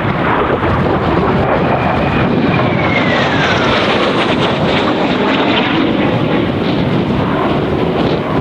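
Kawasaki T-4 jet trainers passing overhead, their twin-turbofan roar with a whine that falls in pitch about three seconds in as they go by. Strong wind buffets the microphone throughout.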